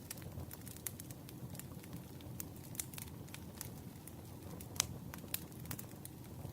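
Campfire crackling: wood popping and snapping at irregular moments over a steady low rumble of flame, with one louder pop near the end.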